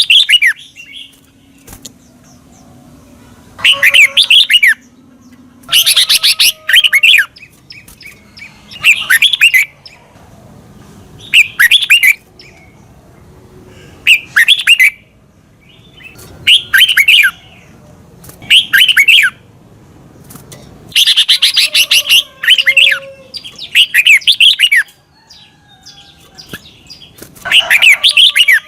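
Red-whiskered bulbul singing loud, bubbling phrases of about a second each, with quick sweeping notes, repeated about ten times with short pauses between them.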